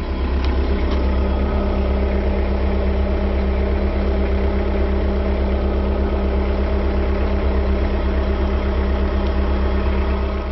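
JCB 515-40 compact telehandler's engine running steadily. It rises in level right at the start, then holds an even, unchanging note.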